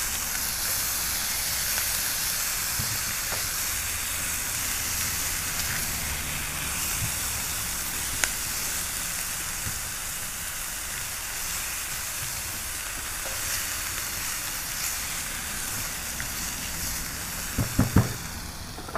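Chicken and onions frying in a pan with a steady sizzle. A few faint clicks, and a couple of louder knocks about a second before the end.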